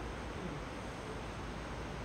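Steady hiss with a low rumble underneath from a distant HST (InterCity 125) approaching along the line.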